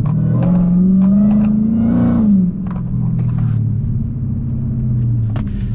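Dodge Challenger Hellcat's supercharged V8 pulling under throttle: its pitch rises for about two seconds, drops sharply as the driver lifts or shifts, then runs steady at a lower pitch.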